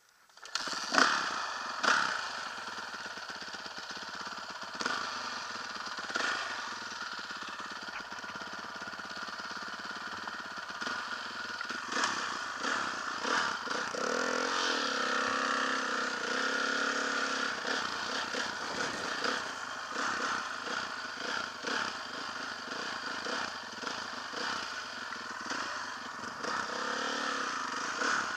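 Motocross dirt bike engine running and revving, its pitch rising and falling, with knocks and clatter along the way. The sound starts abruptly just after the beginning.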